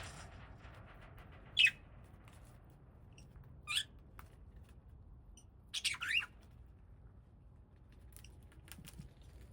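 Small pet parrots giving a few short, sharp squawking calls, the loudest about a second and a half in and a quick pair near the middle, with faint clicks near the end.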